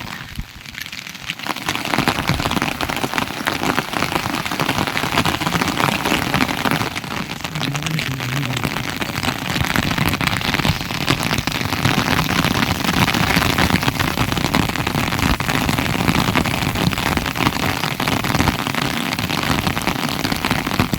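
Steady heavy rain falling, a dense patter of drops on surfaces.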